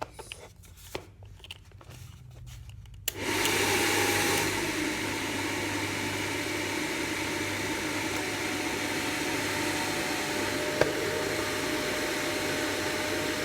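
A few light handling clicks, then about three seconds in a hairdryer switches on and runs steadily with a faint whine, louder for its first second or so before settling. It is blowing air through a cut-off water bottle into an inflatable pool. A single sharp click sounds near the end.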